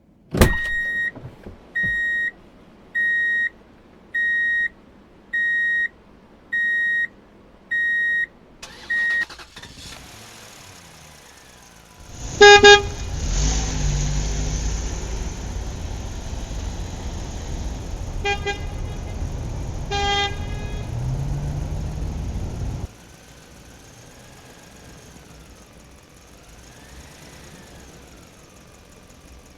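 Electronic sound effects from a battery-powered toy vehicle. A click is followed by a series of about eight evenly spaced electronic beeps, roughly one a second. Then a recorded engine sound plays with three horn honks and cuts off suddenly, leaving a faint wavering tone.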